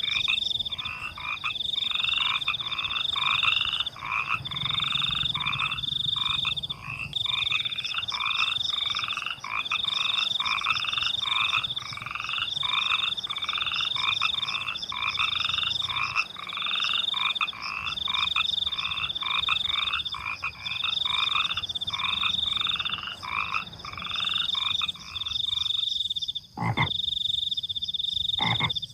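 A chorus of frogs croaking in a steady repeating rhythm, about one call a second, over the high steady trilling of crickets. Near the end the croaking breaks off while the crickets go on, and a couple of sharp clicks are heard.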